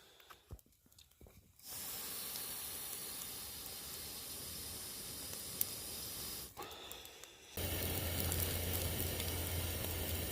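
A campfire of birch bark and dead wood burning with a steady hiss and an odd crackle, starting and stopping abruptly.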